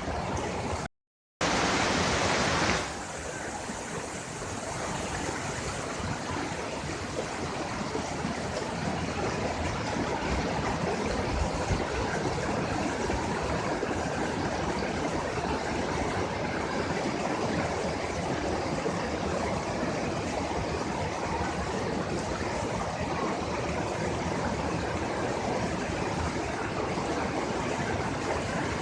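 Waterfall rushing steadily, an even roar of falling water. The sound cuts out briefly about a second in and is louder for a moment before settling.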